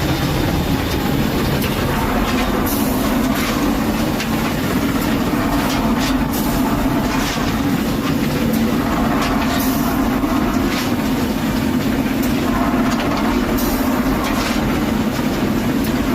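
Train running along the track: a steady rumble with occasional sharp clicks.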